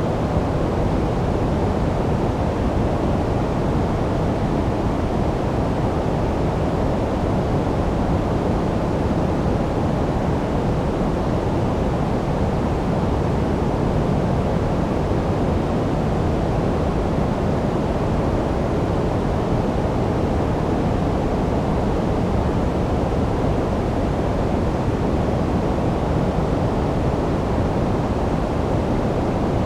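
Steady, unchanging generated noise of the sleep-aid kind, a deep rushing hiss that is heavier in the low end than in the treble.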